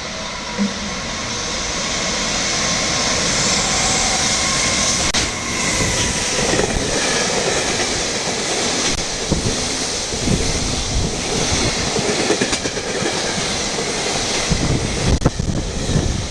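Freight train hauled by a JR Freight EF210 electric locomotive running past: the sound builds over the first few seconds as it approaches, then a steady loud rumble of freight wagons with irregular clacks of wheels over rail joints.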